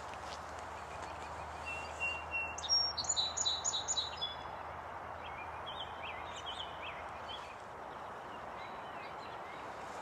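A songbird sings one phrase of quick, high notes about two seconds in, then a few fainter chirps follow, over a steady background hiss.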